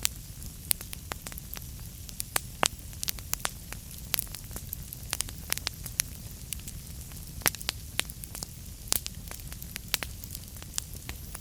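Wood fire crackling in a fireplace: frequent, irregular sharp pops and snaps over a steady low rumble from the flames.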